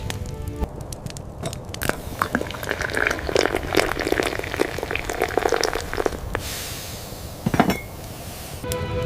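A quick run of many small clicks and clinks, then a steady hiss with one sharp knock near the end. Background music plays briefly at the start and comes back at the very end.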